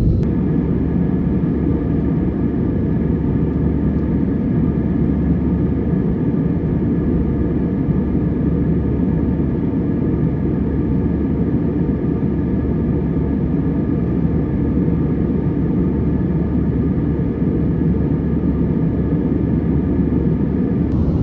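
Steady cabin noise aboard an Airbus A321 with its engines running: a constant low rush, with faint steady tones higher up.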